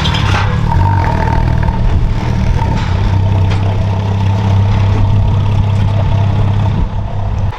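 Porsche Cayman's 3.8-litre flat-six engine running at a steady speed, a loud, even low drone with little change in pitch that cuts off suddenly at the end.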